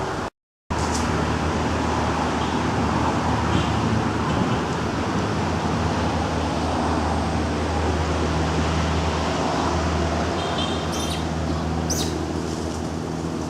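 A motor vehicle's engine running steadily with road noise around it, a low even hum, with a few short high chirps near the end.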